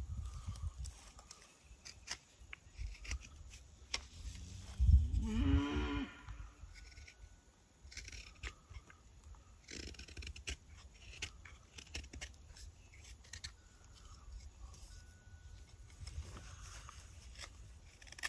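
Hand tool cutting walnut wood in short scraping strokes and clicks while carving a spoon. About five seconds in, a farm animal gives one long call, the loudest sound.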